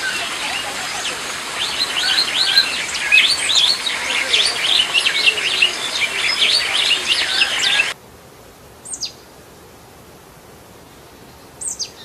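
Small birds chirping: many short, high notes in a dense run that cuts off abruptly about eight seconds in. Then, over a much quieter background, two single high call notes that fall quickly in pitch.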